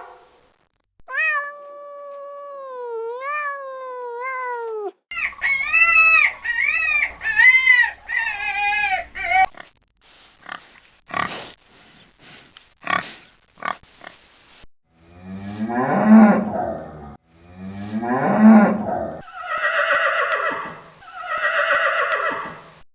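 A string of different farm animal calls with abrupt changes between them: drawn-out pitched calls first, a run of short rough noises in the middle, then several more long pitched calls.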